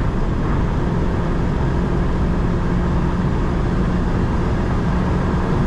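Škoda Favorit 135L's 1.3-litre four-cylinder engine straining near its top speed, heard inside the cabin as a steady drone under heavy wind and road noise while the car slowly gains speed from about 139 to 144 km/h.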